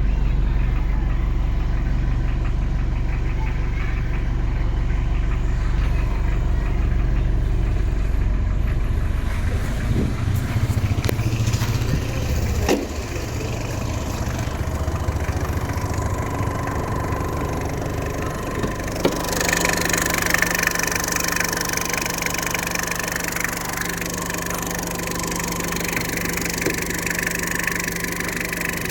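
Tata Indica V2 engine idling steadily. About ten seconds in the low hum thins out, there is a single click about 13 s in, and from about 19 s in the sound turns brighter and hissier over a steady low tone.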